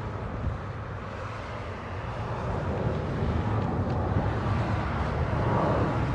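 Jet airliner on its takeoff run, its engines a low, steady rumble that grows gradually louder as the plane comes closer.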